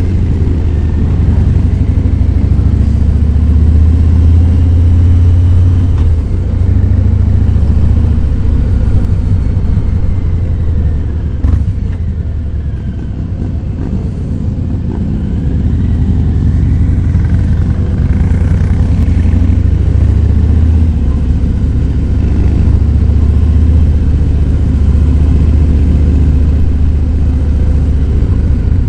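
Harley-Davidson Fat Boy 107's Milwaukee-Eight V-twin engine running while riding, a deep steady rumble. It drops in loudness about eleven seconds in and comes back up a few seconds later.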